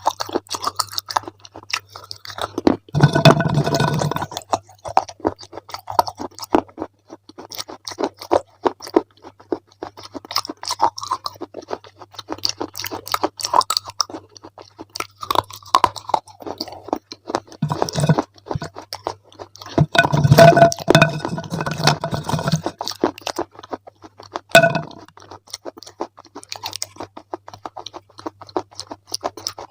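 Close-up chewing and crunching of crunchy ice cream, a steady run of crisp crackles with two louder spells of chewing, one about three seconds in and a longer one around twenty seconds in.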